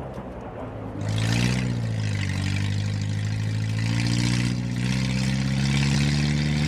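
Car engine revving up about a second in, then running steadily with a hiss over it.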